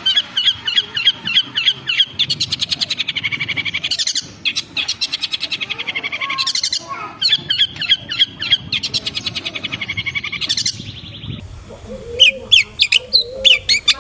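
Long-tailed shrike (cendet) singing: long runs of rapid repeated chattering notes and fast trills. A brief lull comes about eleven seconds in, then sharper single calls start up again near the end.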